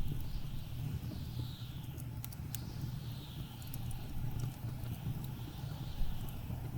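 Blizzard wind with a steady low rumble and gusts that sweep down in pitch every second or two, over the sharp pops and crackles of burning wood in a fireplace.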